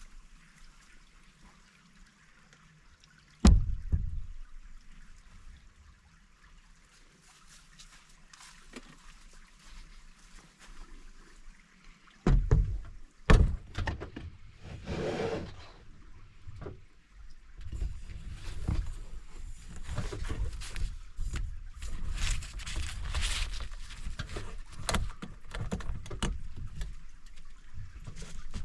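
A single sharp knock about three and a half seconds in, then from about twelve seconds a busy run of knocks, thumps and rustling, with a brief swish near fifteen seconds, like gear being handled at a campsite.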